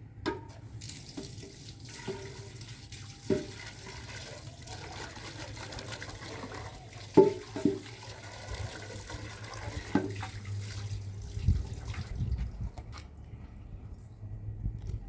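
Water running and splashing for about eleven seconds, with several sharp knocks, the loudest a pair about seven seconds in.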